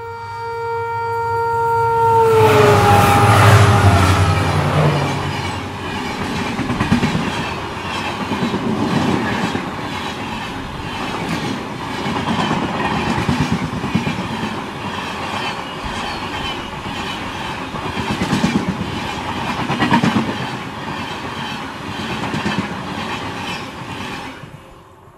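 Express train passing at speed. Its locomotive horn is held on the approach and drops in pitch as the locomotive goes by. Then the coaches rush past with a rhythmic clickety-clack of wheels over the rail joints for about twenty seconds, and the sound cuts off abruptly near the end.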